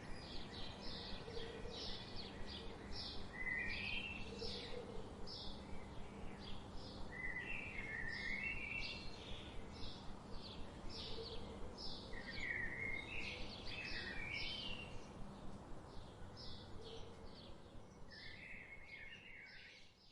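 Songbirds singing: a steady run of short, high chirps a few times a second, with a lower warbled phrase every few seconds, over a steady background hiss and low hum. The sound fades out at the very end.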